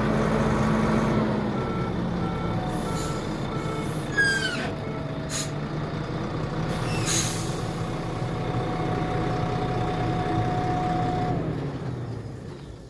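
Volvo A25 dump truck's six-cylinder Volvo diesel running steadily. A reversing alarm beeps a few times about two seconds in. Sharp air hisses, typical of air brakes, follow at about four, five and seven seconds in, and the engine sound fades away near the end.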